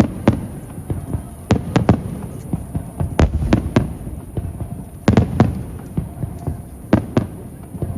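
Aerial fireworks bursting, a dozen or so sharp bangs coming singly and in quick pairs, each followed by a rumbling echo.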